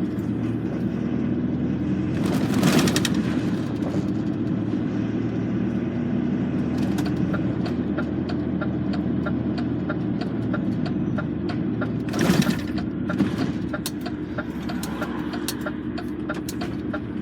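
Lorry engine running steadily, heard from inside the cab while driving, with two short loud rushing noises and a run of rapid ticking in the second half.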